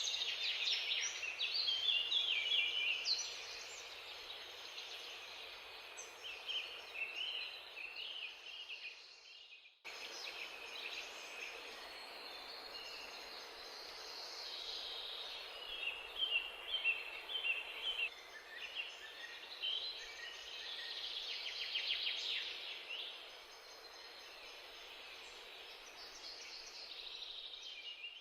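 Many small birds chirping and twittering over a steady background hiss, with a brief cut-out about ten seconds in.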